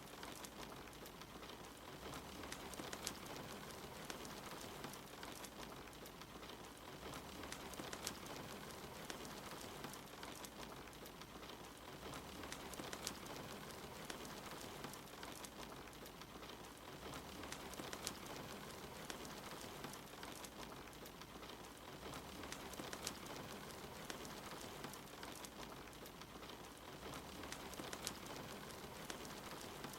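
Steady soft rain with a wood fire crackling, scattered small pops and snaps over the even hiss of the rain.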